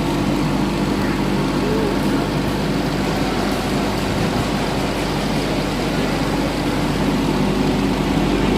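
Large electric air blower running steadily: a constant low hum with a few held tones under a rush of moving air.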